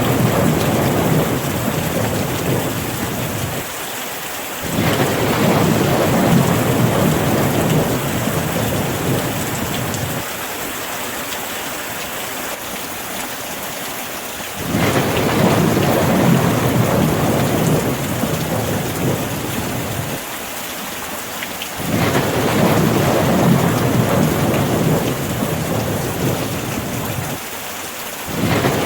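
Steady rain hissing down, with deep rolling thunder rumbles that swell up suddenly about five, fifteen and twenty-two seconds in and again near the end, each dying away over several seconds.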